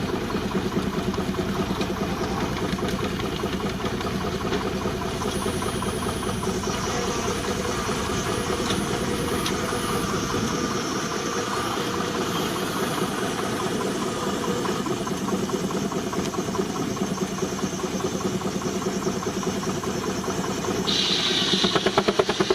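A 19-65 Uniflow Baker steam traction engine running steadily under belt, with fast, even exhaust beats and a hiss of steam. About a second before the end it grows louder and the beats get stronger.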